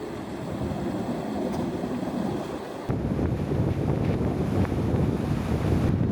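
Wind buffeting the microphone, a low, noisy rumble that gets louder sharply about three seconds in.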